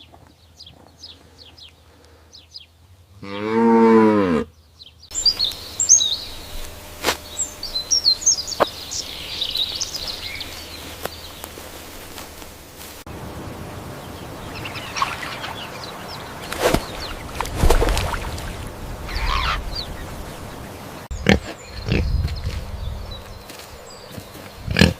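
A cow mooing once, about three seconds in, the loudest sound here. It is followed by other short animal recordings, with quick high chirping calls for several seconds after the moo.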